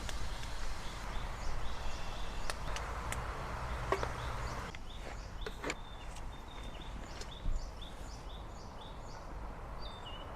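Outdoor ambience: small birds chirping in a run of short, repeated high notes over a steady low rumble, with a few sharp clicks in the first half.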